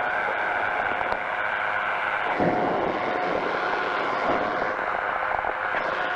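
Powered parachute's engine and propeller running steadily in flight: a constant drone with a steady high whine over it.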